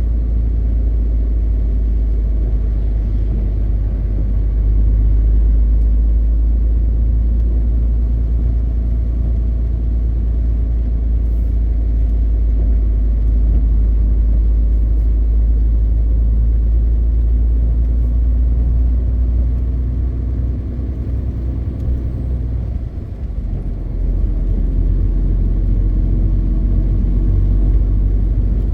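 MAN TGX 520 truck on the move: a steady low engine and road drone. It eases off about twenty seconds in and picks back up a few seconds later.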